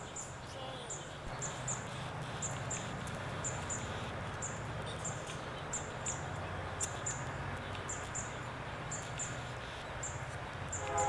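Outdoor ambience: short high-pitched chirps from a small animal repeat about twice a second, over a steady low hum.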